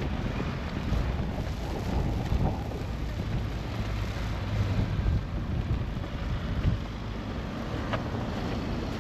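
Strong storm wind buffeting the microphone: a low, uneven rumble that swells and eases with the gusts.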